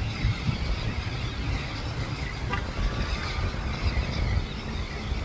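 Wind buffeting the microphone in an uneven low rumble, with faint seabird calls behind it.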